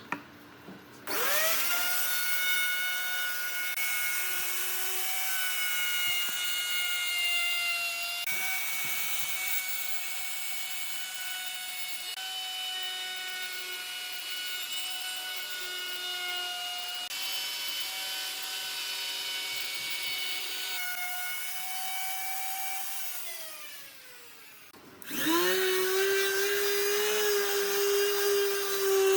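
Electric woodworking power tool whining up to speed about a second in and running at a steady high pitch while it works wood. Near the end it winds down with a falling whine, then starts up again.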